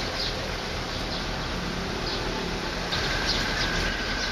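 A few short, high bird chirps over steady outdoor background noise. A steady high tone joins about three seconds in.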